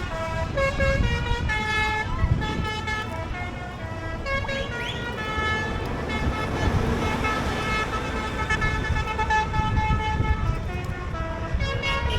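A quick tune of horn-like notes, going on and off, over the low, steady rumble of passing tractor and truck engines.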